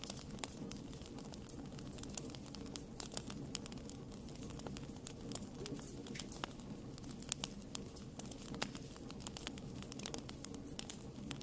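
Wood fire burning in a fireplace, with a steady low rumble of flames and frequent sharp crackles and pops scattered irregularly throughout.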